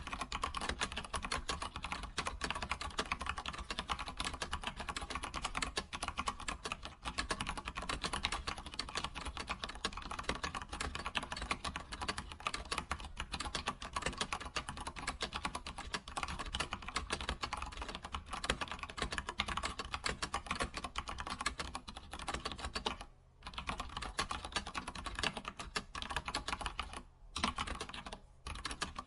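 Computer keyboard typing: rapid, continuous clicking of keys, broken by a few brief pauses near the end.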